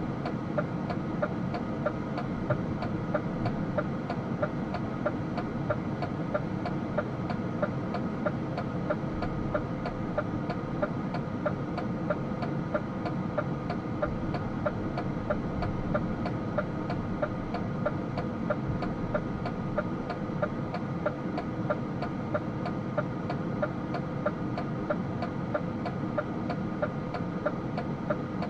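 DAF truck's diesel engine running steadily, heard from inside the cab, with a regular light ticking a few times a second throughout.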